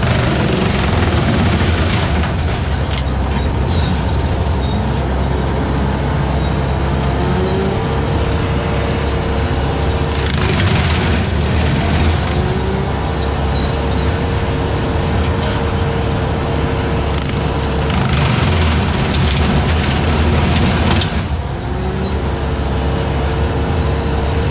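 Skid steer engine running steadily under load while its 72-inch hydraulic brush cutter mows long grass and brush, with a steady whine that drops out and comes back a few times. Twice the sound swells into a louder rush as the cutter works through heavier growth.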